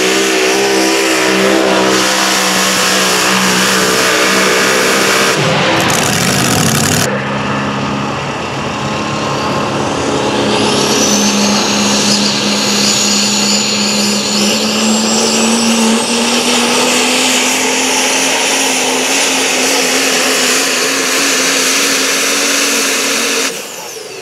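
Engines of pulling tractors or trucks running hard under load on a sled pull. The sound changes abruptly about six seconds in and again near the end. Through the middle a high whistle rises slowly over the engine's steady note.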